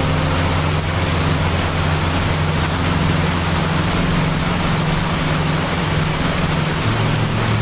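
Steady heavy rain noise mixed with a low sustained drone underneath, whose low tones shift about seven seconds in.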